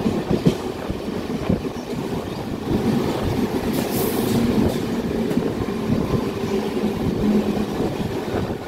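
MEMU electric passenger train running at speed, heard through its open door: a steady rumble of wheels on rail with clattering over the rail joints.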